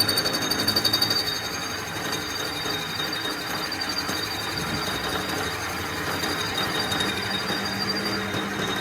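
A machine running steadily, with a fast pulsing in the first second or so.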